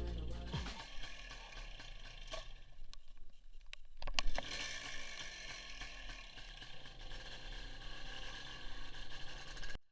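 WSK 175 two-stroke single-cylinder motorcycle engine running, heard from an onboard camera, with changes in engine speed later on and a sharp knock about four seconds in. The sound cuts off abruptly at the very end.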